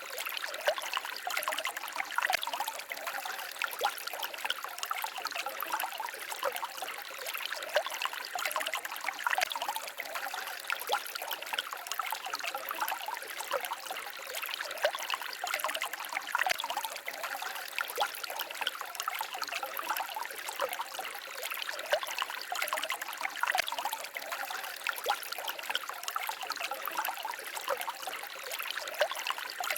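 Small stream babbling and trickling over stones: a steady rush of water with a constant fine spatter of small splashes.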